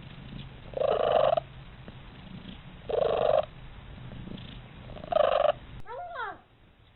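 A domestic cat purring steadily, with three loud, short calls about two seconds apart over the purr. Near the end a brief meow that slides in pitch.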